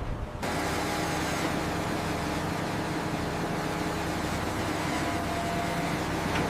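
A motor running steadily, with a faint hum of steady tones, starting abruptly about half a second in.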